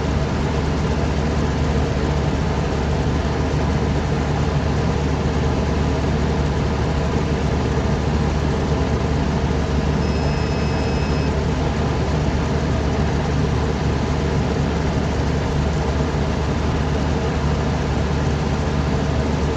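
Old Lennox outdoor unit's condenser fan motor running steadily, moving air over the coil with the compressor off, to cool a compressor that has tripped on its thermal overload. A short high beep sounds briefly about ten seconds in.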